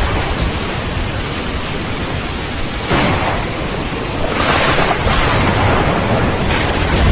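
Steady heavy rain with a low thunder rumble underneath. The rain swells suddenly about three seconds in and again between four and five seconds.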